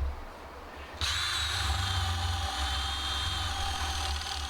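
Electric drill starting up about a second in and running steadily with a high whine as it bores waste wood out of a timber mortise.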